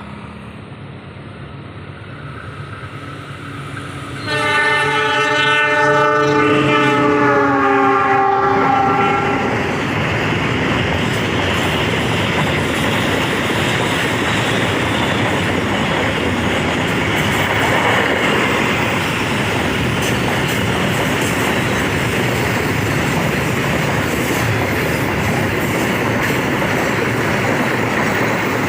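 A diesel locomotive approaching with its engine humming sounds its multi-tone horn about four seconds in, a blast of about five seconds that sags in pitch near its end; then the train runs past at speed with loud, steady noise of wheels on the rails.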